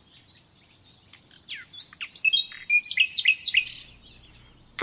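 A bird singing a quick run of high chirps and short falling whistles, starting about a second and a half in and stopping near the end.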